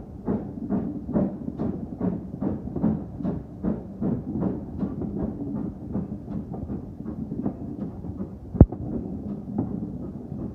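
Steam locomotive exhaust beats, about two and a half a second, growing weaker after about six seconds, over a low running rumble. A single sharp knock about eight and a half seconds in.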